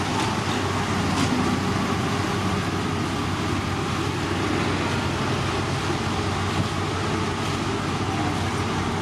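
Heavy road-construction machinery running steadily, a constant diesel engine drone with a low hum and no sudden changes.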